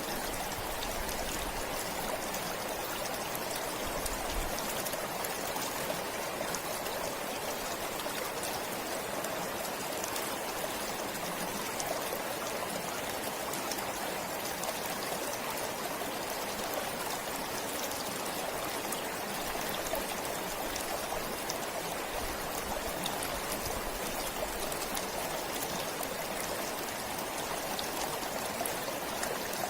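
A forest stream flowing and babbling steadily, with fine trickling and splashing over stones.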